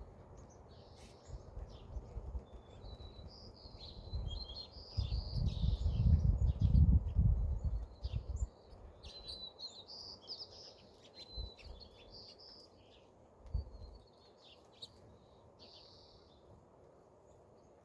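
Small songbirds chirping and trilling on and off. A loud low rumble rises about four seconds in and lasts about four seconds, the loudest sound here, with a short low thump later on.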